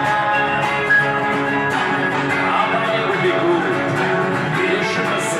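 Guitar-led band music playing an instrumental passage of a rock song, with a held melodic line and no sung words.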